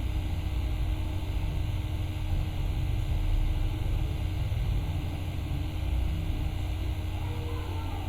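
Steady low rumbling noise with a faint constant hum.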